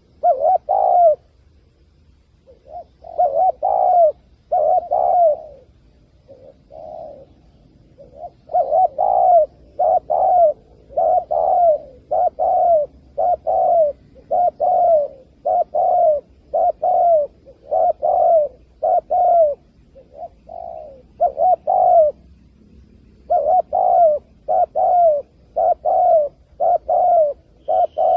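Spotted dove cooing: short, arched coos repeated in runs of several, roughly one to two per second. The runs are broken by short pauses.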